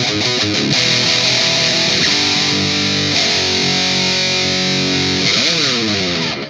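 Distorted electric guitar playing a heavy riff: quick chugging notes, then held ringing chords, and a slide down in pitch just before the sound cuts off suddenly.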